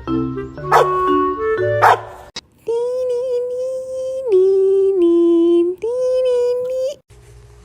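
Piano music with a bass line, then a dog howling in three long held notes, the middle one lower in pitch.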